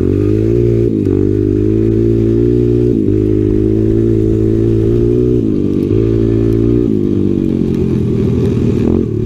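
Small Honda single-cylinder four-stroke dirt-bike engine running under way in the snow, its pitch dipping and climbing again several times as the throttle is rolled off and back on.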